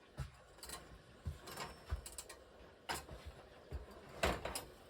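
A series of about ten irregular clicks and knocks, the loudest about four seconds in.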